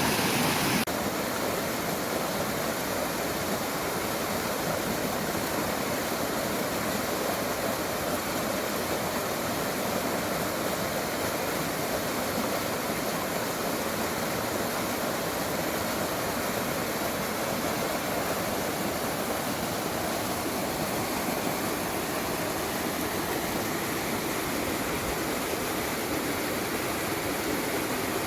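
Mountain stream rushing steadily over rocks, a constant even rush of water that drops a little in level about a second in.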